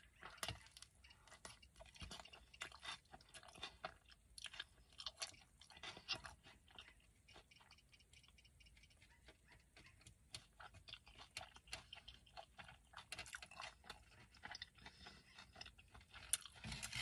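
Faint close-up chewing of a mouthful of burrito: soft, irregular wet clicks and smacks, quieter for a few seconds about halfway through.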